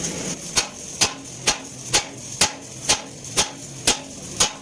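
Hammer striking metal in a steady rhythm, about two blows a second, nine blows in all.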